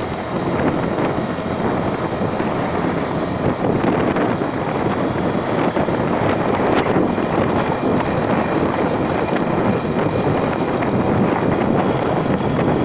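Steady wind rushing over the microphone of a moving vehicle, with engine and road noise underneath.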